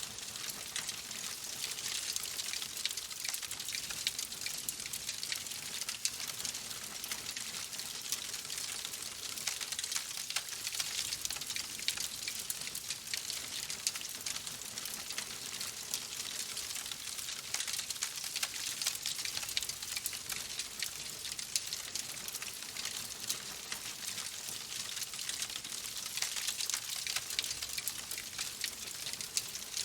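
A wood fire in a fireplace crackling steadily: a dense stream of small sharp pops and snaps over a constant hiss.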